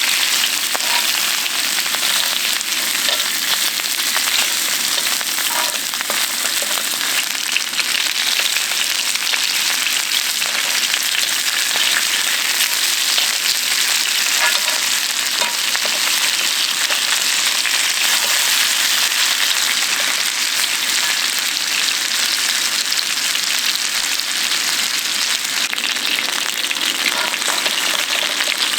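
Food sizzling steadily in hot fat over high heat, a dense hiss with small pops and crackles throughout.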